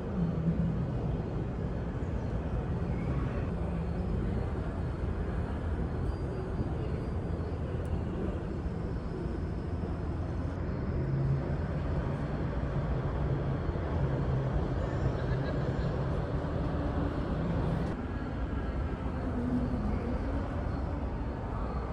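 Large 4x4 military truck engine running with a steady low rumble.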